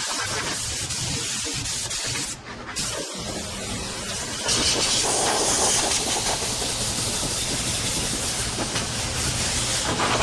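Boat engine running steadily under a loud rushing hiss; the hiss grows louder about four and a half seconds in.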